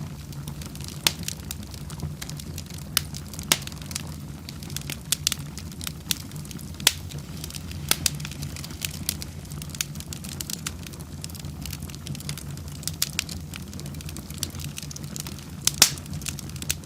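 Wood fire burning in a fireplace: sharp crackles and pops at irregular intervals over a steady low rumble of the flames, with one louder pop near the end.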